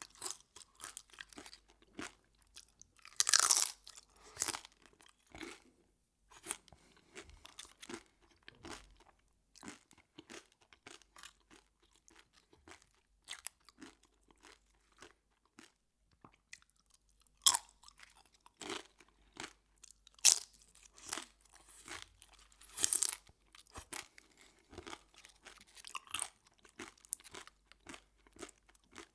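Close-miked chewing of crunchy food, a dense run of crunches with a few louder bites spread through.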